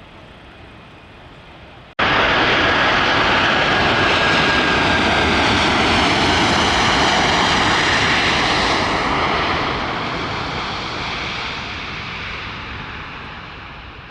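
Jet airliner's engines passing close: loud rushing noise with a steady high whine, starting abruptly about two seconds in and fading away over the last few seconds.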